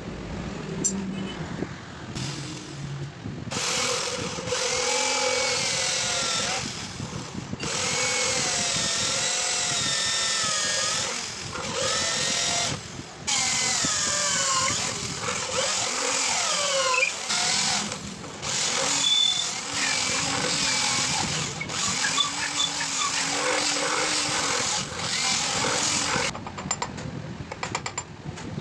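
Electric power tool grinding steel for a knife blade made from a bearing. It runs in several long passes, with a whine that wavers in pitch, and breaks off briefly a few times before stopping near the end.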